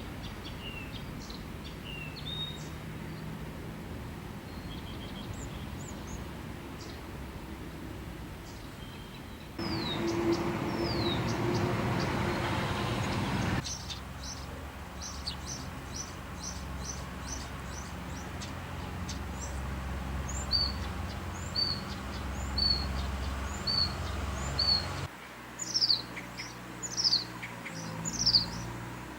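Wild birds chirping and calling over a steady outdoor background: short high chirps and quick downward-sliding notes, then a run of evenly repeated chirps, and a few louder descending calls near the end. The background noise changes abruptly a few times.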